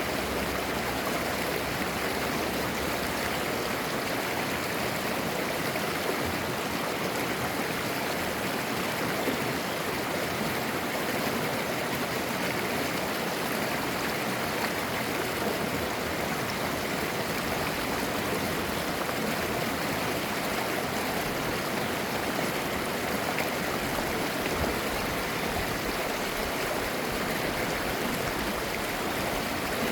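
Mountain stream babbling over rocks, clear water flowing in a steady, even rush.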